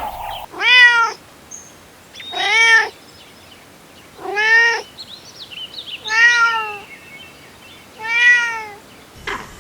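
Cat meowing five times, each meow about half a second long, rising and then falling in pitch, spaced about two seconds apart.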